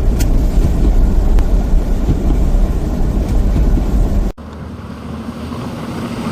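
A loud, low, irregular rumbling noise, like outdoor sound with wind on the microphone. It cuts off abruptly after about four seconds into a quieter, steady hiss.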